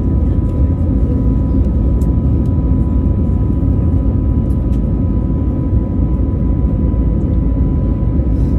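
Airbus A321neo jet engines running with a steady, loud, deep rumble and two faint steady whining tones above it, holding an even level throughout.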